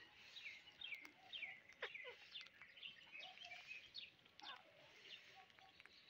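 Faint chirping of small birds: many short, quick falling notes, several a second.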